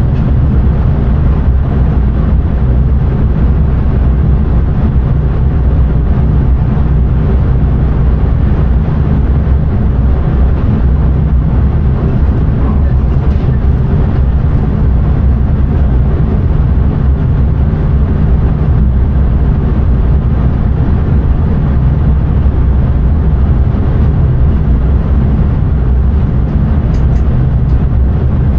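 Steady low rumble of a train running along the track, heard from inside the driver's cab, with a few faint clicks near the end.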